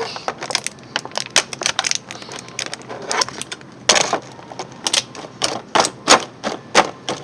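Small hard plastic toy figures and their packaging being handled, clicking and tapping against each other in irregular sharp clicks.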